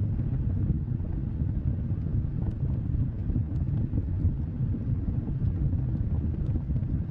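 Wood fire burning: a steady low rumble of flames with a few faint, scattered crackles.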